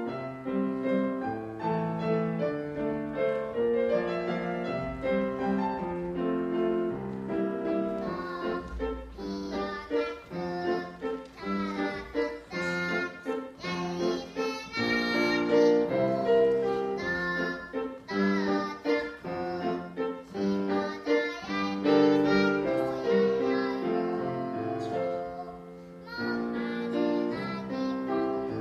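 Piano accompaniment with a young child singing a Korean children's song (동요).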